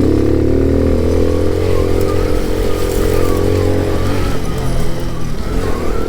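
Alpha moped's small single-cylinder four-stroke engine running under load on a ride over small hills, its pitch rising at first, then holding steady and easing a little near the end.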